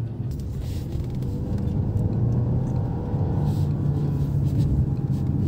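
Jeep Compass 4xe's 1.3-litre turbo four-cylinder petrol engine with road noise heard inside the cabin, pulling uphill in sport mode with the hybrid battery run flat. It gets louder about two seconds in as the car accelerates.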